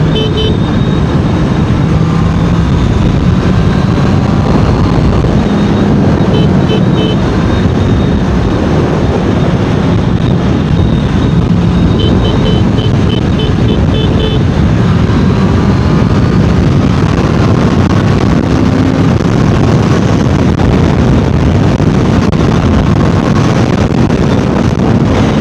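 Honda CBR650R's inline-four engine and exhaust running at road speed, heard from the rider's seat with wind rushing over the microphone. The engine note steps up and down in pitch as the throttle changes.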